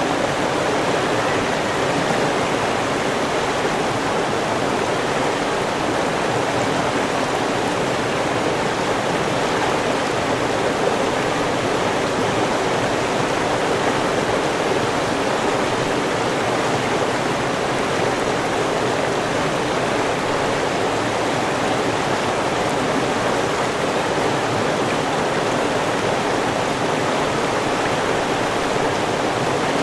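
River water rushing and burbling steadily, an even, unbroken flow with no other sounds.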